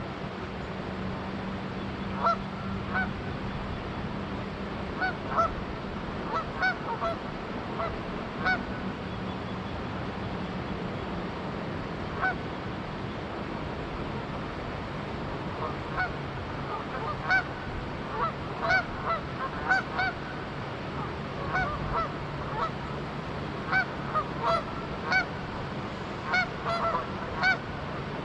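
Canada geese honking in short, repeated calls, sparse at first and more frequent in the second half, over the steady rush of flowing river water and a faint low drone.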